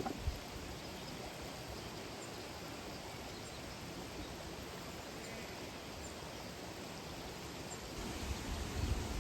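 Steady rush of a waterfall and flowing water, with a couple of short knocks at the very start and low rumbling near the end.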